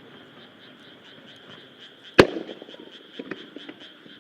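A single aerial firework shell bursting with one loud, sharp bang about two seconds in, with a short echoing tail, followed a second later by a few softer cracks. A steady high pulsing chorus runs underneath.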